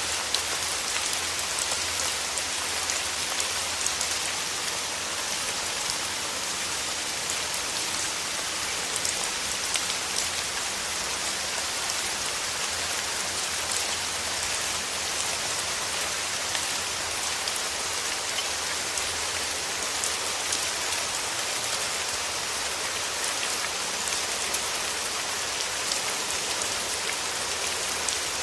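Steady rain falling: a dense, even hiss of drops with many small individual drop ticks.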